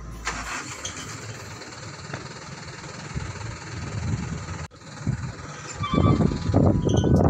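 Truck engine running with a steady low rumble, becoming much louder and rougher about six seconds in.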